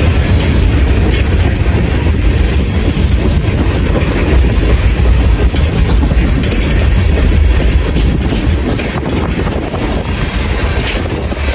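A train passing close by: a loud, steady rumble with wheels clacking over the rail joints and a faint high wheel squeal, easing off slightly near the end.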